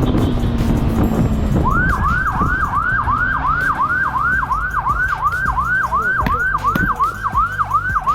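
Police siren switched on about one and a half seconds in, yelping in quick repeated sweeps of about three a second. Under it is the low rumble of vehicle and wind noise.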